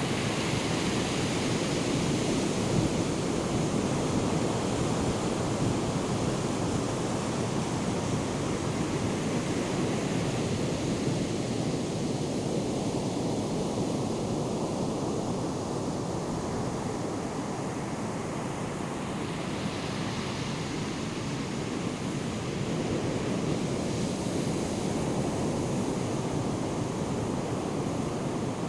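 Ocean surf from a hurricane swell: waves breaking and washing in as a continuous rush, swelling a little as sets break near the start and again about two-thirds through. Wind buffets the microphone underneath.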